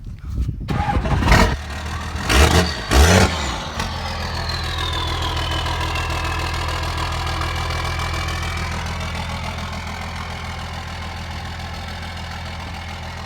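1994 Dodge Ram's Cummins 12-valve 5.9-litre inline-six turbo diesel cold-starting: it cranks and fires in a few loud surges over the first three seconds or so, then settles into a steady idle. A high whine falls away over a few seconds just after it catches.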